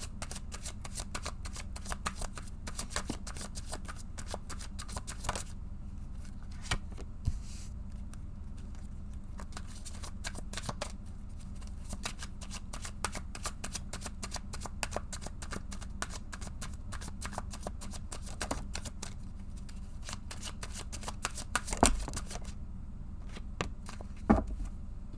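Tarot cards being shuffled by hand: a long run of quick, soft card clicks with two short pauses, two louder knocks near the end, and a steady low hum underneath.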